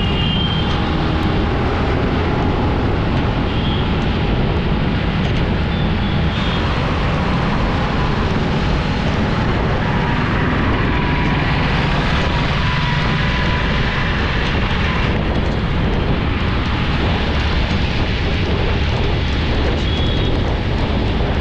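Steady road noise from a vehicle on the move: a loud, even rush with a low rumble underneath.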